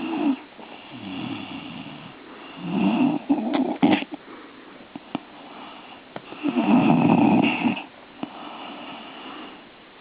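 Griffon dog snoring: a loud rasping snore about every four seconds, with a fainter one between, and a few short clicks near the middle.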